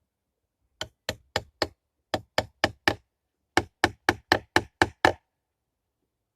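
A quick series of sharp knocks in three runs, four, four, then seven, at about four a second.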